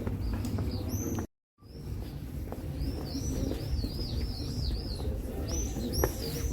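A songbird calling in a run of short, high, arched chirps, quick in succession, over a steady low rumble of outdoor noise. The sound cuts out completely for a moment about a second in.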